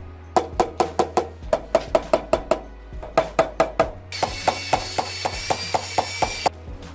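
A rapid series of sharp knocks, about five a second, each with a short pitched ring. About four seconds in, a steady high-pitched whine joins for about two seconds and cuts off suddenly.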